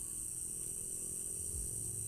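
Night chorus of crickets chirring as one steady high drone, with a low hum underneath.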